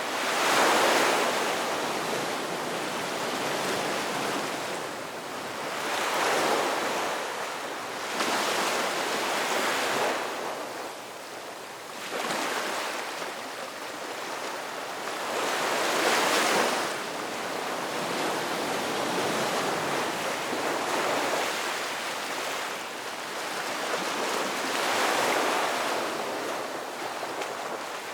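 Ocean waves breaking and washing in, a rush of surf that swells and fades every few seconds, with about five louder breakers.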